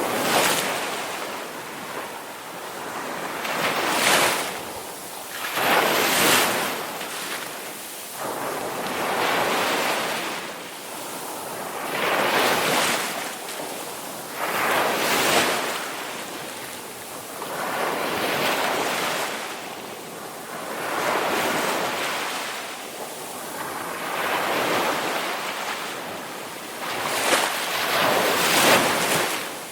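Ocean surf: waves washing in and drawing back in a steady series of swells, about one every three seconds.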